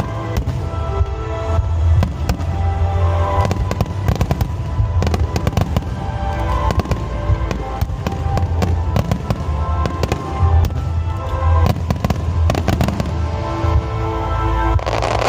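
Fireworks bursting and crackling in quick succession over loud instrumental music with a heavy bass. A dense crackling burst comes near the end.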